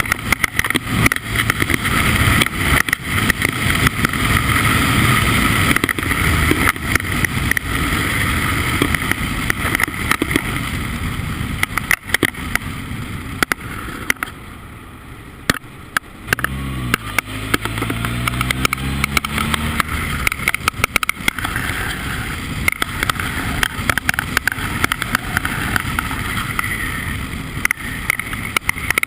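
Formula Ford single-seater race car running on track, its engine noise mixed with loud rushing and crackling. About halfway through the sound drops briefly, then the engine note climbs again as the car accelerates.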